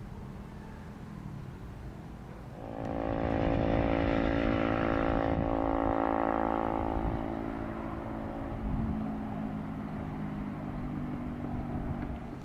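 A motor vehicle driving past. Its engine note swells quickly about three seconds in, holds for a few seconds, then fades away, with a low hum lingering.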